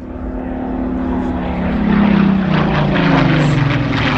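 Propeller aircraft flying past, its engine note growing louder and then dropping in pitch as it goes by in the second half.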